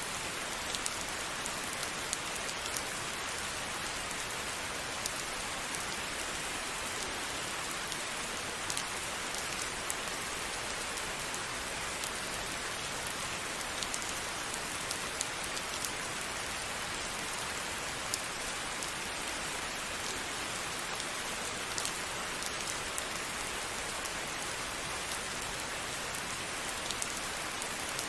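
Steady rain falling, with many separate drops pattering and ticking against a surface.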